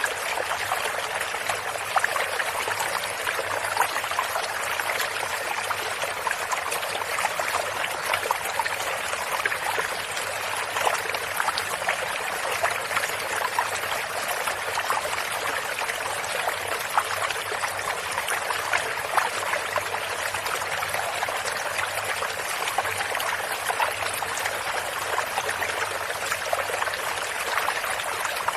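A shallow stream running steadily, water trickling and splashing over stones with many small splashes.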